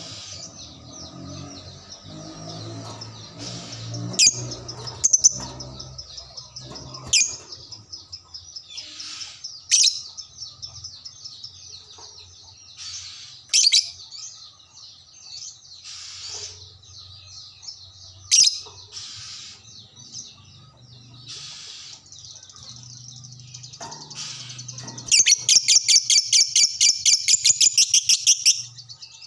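Lovebird chattering, with shrill single calls every few seconds, then near the end a long rapid trill of sharp notes at about seven a second lasting some three seconds: the long 'ngekek' song that keepers prize in a lovebird.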